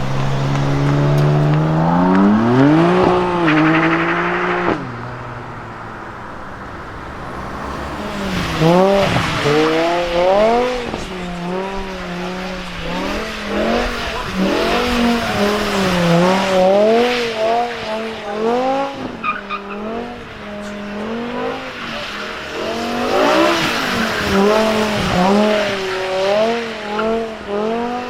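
BMW performance car engine revving: the pitch climbs hard in the first few seconds and drops off. From about eight seconds in it keeps surging up and down, with tyres squealing as in drifting or donuts.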